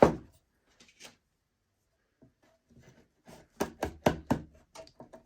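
Wooden pieces and tools being handled on a workbench, knocking and clicking: one loud knock at the start, a couple of light clicks about a second in, then a quick run of about six sharp knocks a few seconds in.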